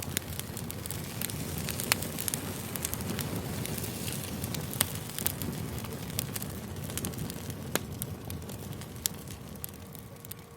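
Campfire crackling: a steady rush of burning wood with frequent sharp snaps and a few louder pops, easing slightly near the end.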